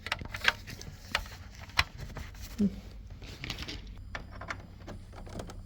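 Handling noise from the repaired cable receiver and its cables being set up for a test: a series of light, sharp clicks and taps at irregular intervals.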